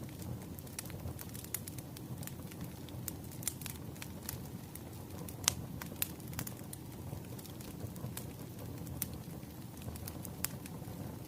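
Firewood burning: a steady low rumble of flames with frequent sharp crackles and pops, the loudest pop about halfway through.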